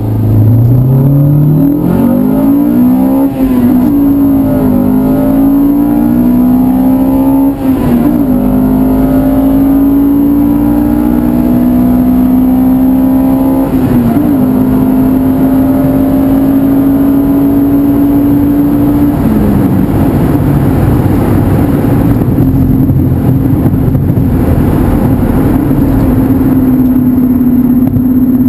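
Honda B18C 1.8-litre DOHC VTEC four-cylinder in a Civic, heard from inside the cabin, pulling through the gears: the engine note climbs, dips briefly at upshifts about 3, 8, 14 and 19 seconds in, then holds a steadier cruise.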